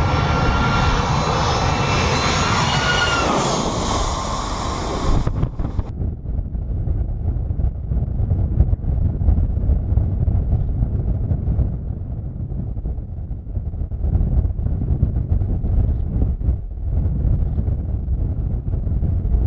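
A low-flying airplane passes close overhead with a loud engine whine that drops slightly in pitch as it goes by. Then an abrupt cut to a duller rumble of aircraft engine noise, with wind on the microphone.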